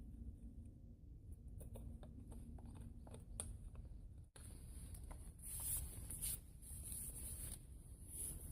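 Faint light clicks, then scratchy scraping strokes after a sudden break about four seconds in.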